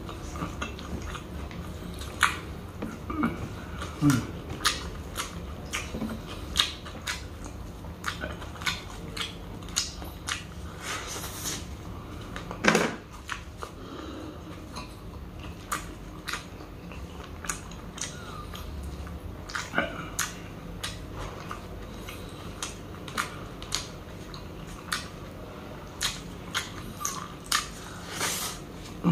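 Close-miked chewing of chicken sisig: irregular wet mouth smacks and sharp clicks as a mouthful is worked, with another bite taken near the end.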